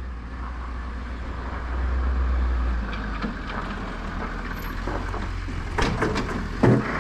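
Pickup truck engine running while plowing snow, a little louder about two seconds in. Near the end come a few sharp knocks.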